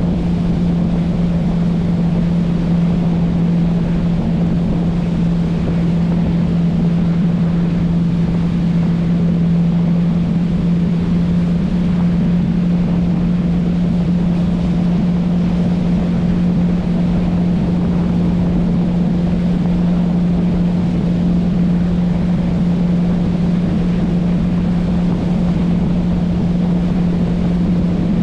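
Motorboat engine running at a constant speed, a steady unchanging hum over an even rushing noise.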